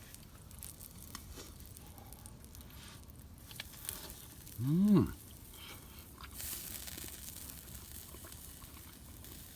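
Faint crackling and sizzling from a small cooking fire with food on it, with scattered light clicks. About five seconds in, a person gives a short hummed 'mm' that rises and falls in pitch.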